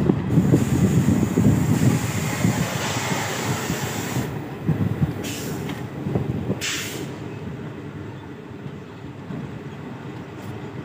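Passenger train rolling along a station platform, its wheels rumbling steadily on the rails and growing gradually quieter, with two short hisses about halfway through.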